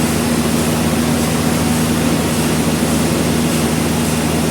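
Sawmill machinery running steadily: a loud, even mechanical drone with a low hum that does not change.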